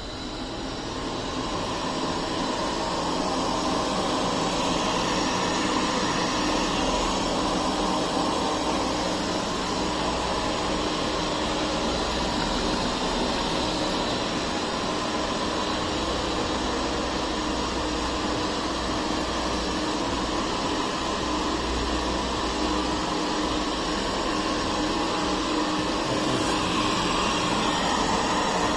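Puppyoo R6 robot vacuum running: a steady fan-and-motor whir with a faint whine, growing louder over the first few seconds, then holding steady.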